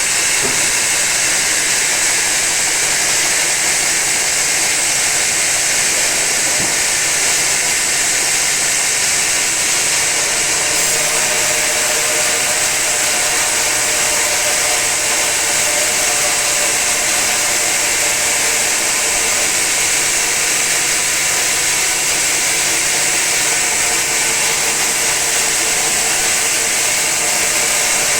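Sawmill saw cutting lengthwise through a very old teak log, a steady high-pitched noise that runs on without a break.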